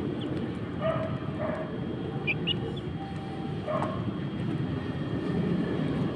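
A few short clucking calls from chickens, about a second in, again half a second later and near four seconds in, with brief high chirps around the middle, over a steady low rumble.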